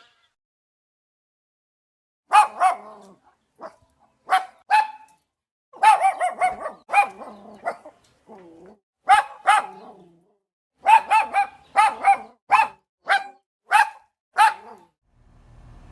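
A dog barking: short, high-pitched barks, many of them in quick pairs, starting about two seconds in.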